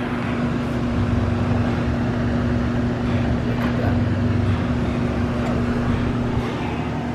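Electric machine polisher running steadily on car paint during cutting and polishing, a constant motor hum with a whirring hiss.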